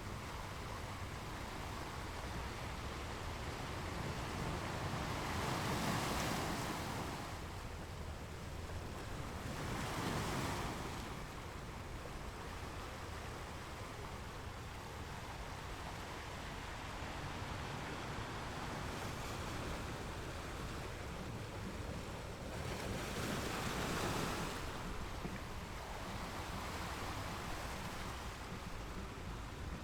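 Ocean waves breaking on a beach: a steady wash of surf with three larger waves swelling and breaking, about 6, 10 and 24 seconds in, over a low rumble.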